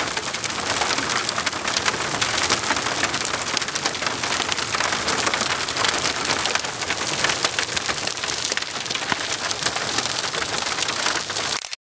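Hailstorm: hailstones and heavy rain pelting a hard surface, a dense, steady patter of many sharp hits. It cuts off suddenly near the end.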